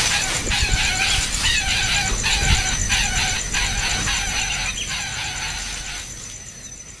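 Birds at a nest calling over and over in short calls, two or three a second, fading out near the end.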